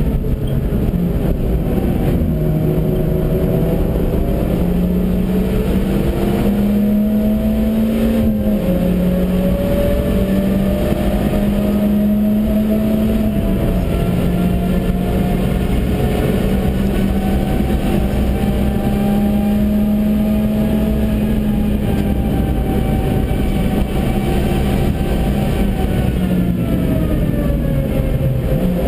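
Stage 1 Suzuki Swift engine pulling hard on track, heard from inside the car. Its revs climb, dip briefly twice about 8 and 13 seconds in, hold high and then fall away near the end, over steady tyre and wind roar.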